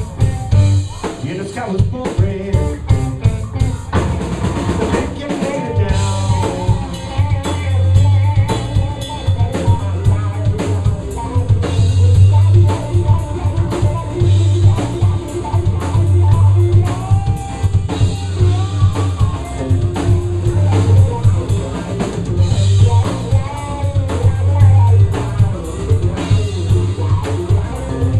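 Live blues band playing, with electric guitar over a drum kit and a steady low bass line.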